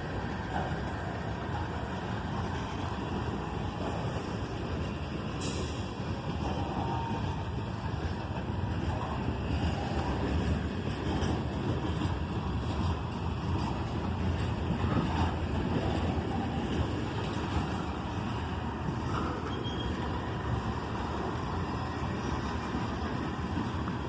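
Freight train cars rolling past at close range: a steady rumble and clatter of steel wheels on the rails, with a few faint brief squeals.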